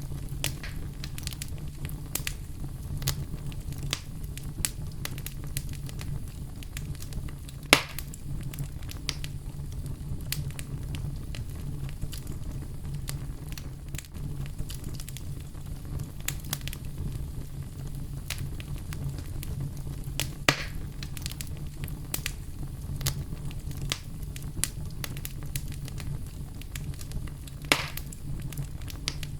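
Campfire crackling: a steady low rumble with scattered sharp pops and snaps, three of them much louder, about 8, 20 and 28 seconds in.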